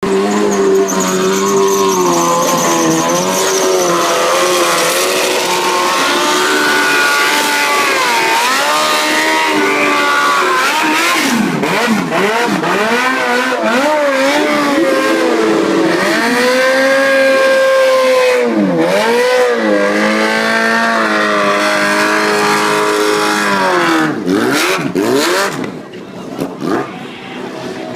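Motorcycle engine revved hard through a burnout, the rear tyre spinning and squealing against the road. The revs rise and fall again and again, then die away near the end.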